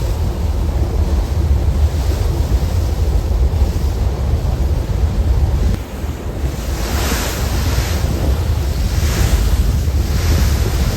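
Wind buffeting the microphone over a heavy steady low rumble, with hissing swells of rushing water about seven, nine and ten seconds in.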